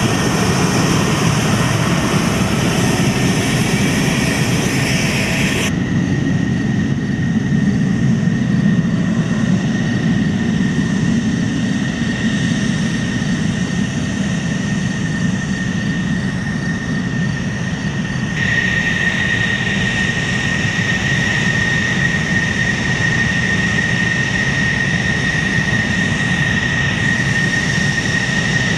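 F-16 fighter jet engine running with a steady high whine over a low rumble. The sound changes abruptly twice, about six and about eighteen seconds in, the whine growing louder after the second change.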